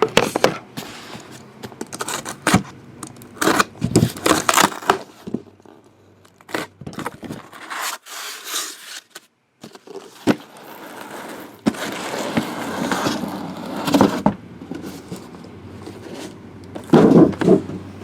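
Plastic wrap crackling and tearing and cardboard scraping and rustling as a sealed box of trading cards is opened and its packs handled. The noises come in irregular bursts with a quieter lull about halfway through.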